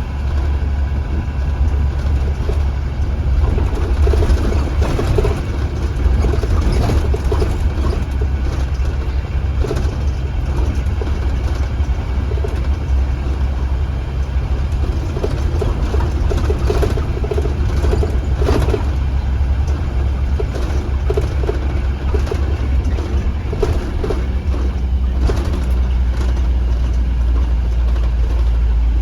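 Engine of a 2015 Blue Bird Vision school bus running with a steady low drone, with intermittent rattling over it.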